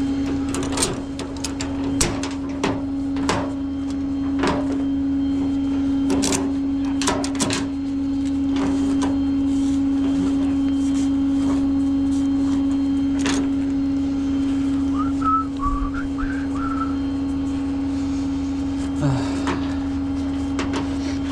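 Tow truck running with a steady drone, over irregular metal clicks and clanks of gear being handled, most frequent in the first half and again near the end.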